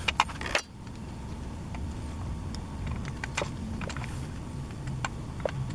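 Small metal chainsaw engine parts handled during disassembly: a few sharp clicks and taps in the first half second, then only a couple of faint ticks, over a steady low rumble.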